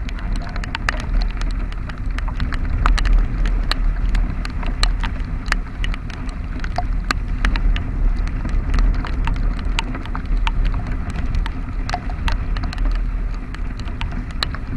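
Rain falling on a camera's waterproof casing: many scattered, irregular sharp drop taps over a steady low rumble of wind and travel noise.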